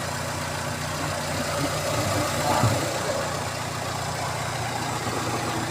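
Fiat Doblò 1.8 16v four-cylinder engine idling steadily, running on freshly installed hydraulic lifters fitted to cure a top-end noise.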